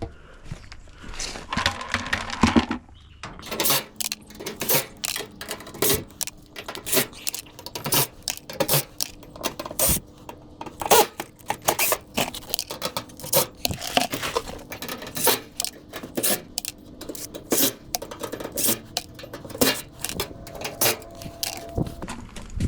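Dishwasher's metal parts and screws clinking and clattering as it is taken apart by hand: quick, irregular metallic knocks, coming thick and fast from a few seconds in.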